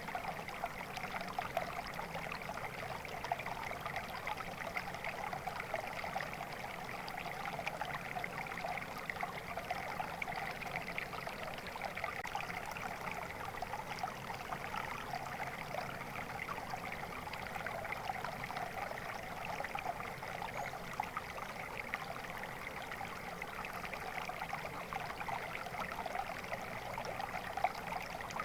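Flowing water in a stream, a steady babbling and trickling rush that stays even throughout.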